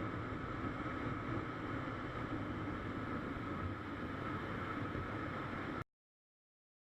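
Steady, fairly quiet vehicle hum mixed with wind noise on the microphone, cutting off abruptly to silence about six seconds in.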